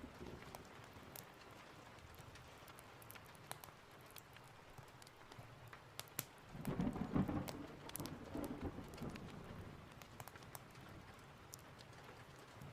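Steady rain with a rumble of thunder swelling up about six and a half seconds in and fading over the next two seconds or so, over scattered faint sharp ticks.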